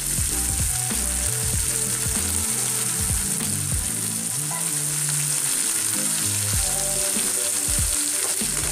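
Chicken pieces sizzling steadily in hot oil in a pan as they are sautéed and stirred, with occasional light knocks of the stirring spoon.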